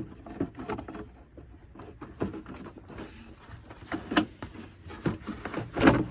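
A truck's plastic engine cover being worked loose and lifted off by hand: scattered plastic clicks and knocks, with a louder clunk near the end.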